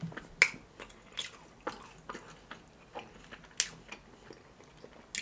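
Close-miked chewing of a mouthful of biscuit, with sharp wet mouth clicks and smacks at irregular intervals, the loudest about half a second in.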